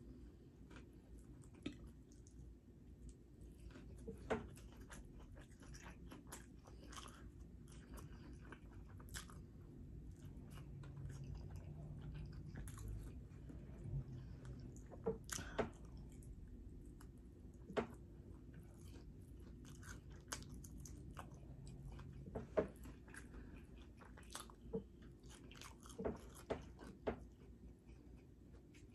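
A person chewing and biting into fried chicken, with crunches and sharp clicks at irregular intervals.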